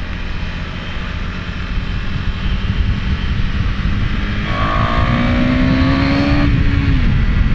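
KTM Duke 390's single-cylinder engine accelerating hard under load, growing louder as speed climbs, over a rush of wind noise. From about four and a half seconds in, a clearer rising engine note stands out, then drops away just before the end.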